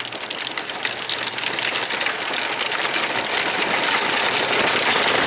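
Hard plastic wheels of a Power Wheels ride-on toy truck rolling and rattling down a hill, the noise growing louder as it gathers speed.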